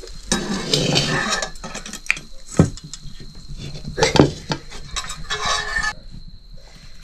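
Metal cookware clattering and scraping: a utensil working in a metal cooking pan, with two sharp clanks about two and a half and four seconds in.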